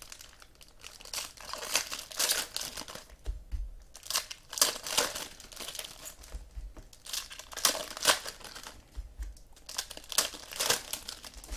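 Trading-card pack wrappers crinkling and tearing as card packs are handled and ripped open, in a run of irregular rustles.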